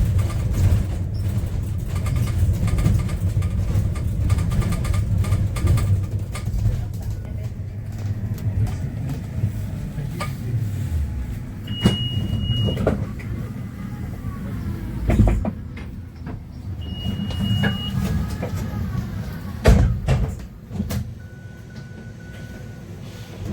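Yutong U12 electric city bus heard from inside the cabin while driving: steady low road rumble with knocks and rattles. Two short high beeps come about 12 and 17 seconds in, each followed by a falling whine, and the rumble quietens near the end as the bus slows.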